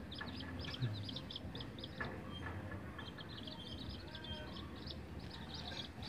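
Lovebirds chattering in rapid, short, high chirps, several a second, with a brief lull a couple of seconds in.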